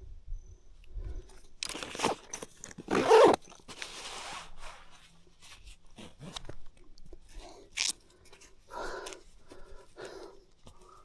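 Mountain bike crunching and rattling over a rough dirt and gravel trail, with irregular bursts of crunching and sharp clicks, loudest about three seconds in.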